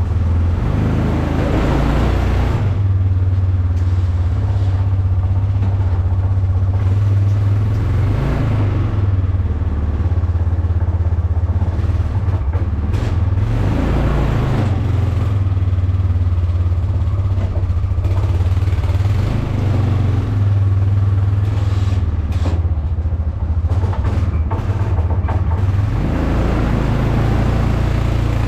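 An old vehicle's engine running hard under load, its revs rising and falling back several times as it is driven through deep snow.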